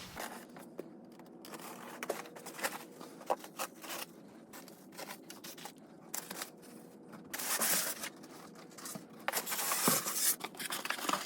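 Light handling noises in a small room: scattered small clicks and knocks, then two longer bursts of rustling near the end.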